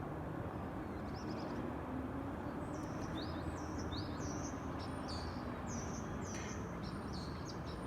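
Small birds chirping: a string of short, high chirps, several a second at times, over a steady low background rumble.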